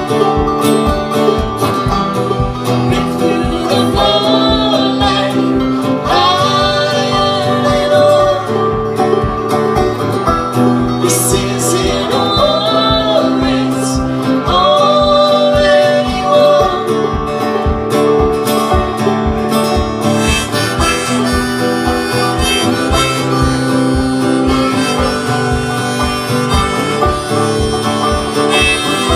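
Harmonica playing a melody over a steady rhythm of strummed guitar, in an instrumental break of a folk song.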